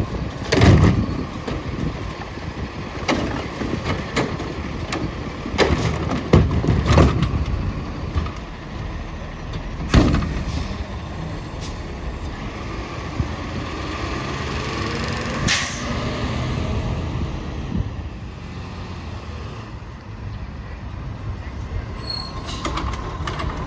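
Autocar ACX garbage truck with a Heil Curotto Can loader at work: the engine runs steadily through several loud bangs and knocks, with a short hiss of air about two-thirds of the way through.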